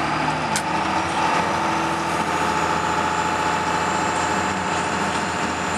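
Dodge Ram pickup's engine running steadily as the truck gets under way in bitter cold, an even hum that stays level throughout.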